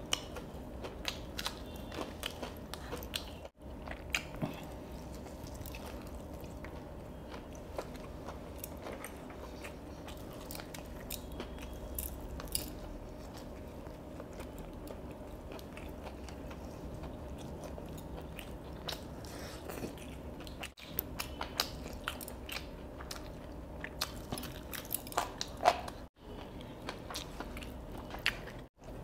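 Close-up eating sounds of crispy fried chicken: teeth biting into the crunchy coating, crackling, and steady chewing. There are a few very short cuts in the sound.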